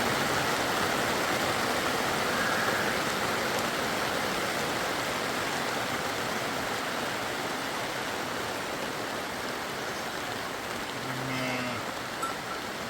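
Rain falling steadily, a continuous hiss that eases slightly over the seconds. Near the end a sheep bleats briefly.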